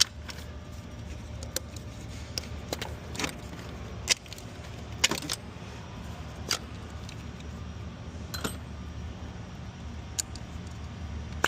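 Scattered sharp clicks and light clinks of hands working plastic wiring-harness clips and connectors in an engine bay, about a dozen over the stretch, with a steady low hum underneath.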